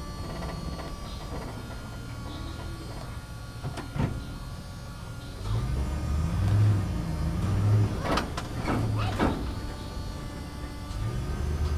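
JCB backhoe loader's engine running, swelling louder as it works under load, with a sharp knock about four seconds in and a cluster of clanks and scrapes a little later.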